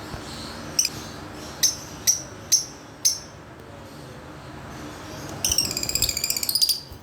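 Fischer's lovebirds calling: five short, shrill chirps spaced about half a second apart in the first three seconds, then a rapid chattering trill lasting about a second and a half near the end.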